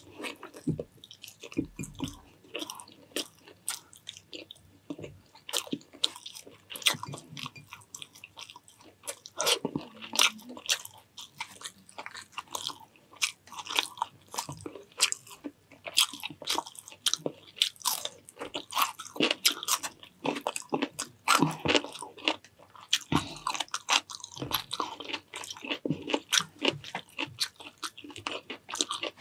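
A person eating close to the microphone: steady, irregular chewing and crunching with many sharp mouth clicks and smacks.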